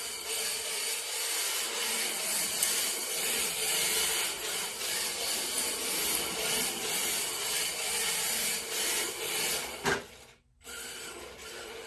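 1/10 scale RC drift car sliding, its hard drift tyres rasping across the surface with a steady faint hum under it. About ten seconds in there is a sharp click and a brief drop to near quiet.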